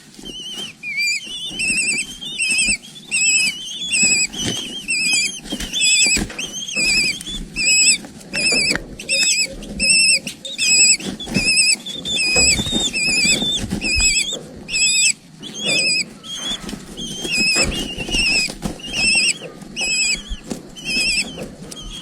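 High, warbling chirps repeated about twice a second, typical of eagle chicks begging for food, over a low rustling.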